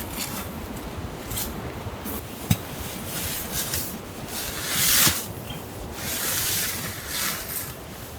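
Rubbing and scraping sounds of something being handled, with a sharp click about two and a half seconds in and a louder swish about five seconds in.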